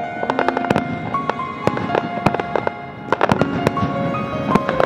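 Aerial fireworks bursting in quick, irregular cracks and pops, with music playing underneath in held notes that step from one pitch to the next.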